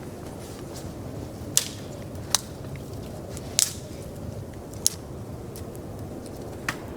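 A steady low rumble of noise with five sharp snaps or clicks spread across it, the loudest in the middle.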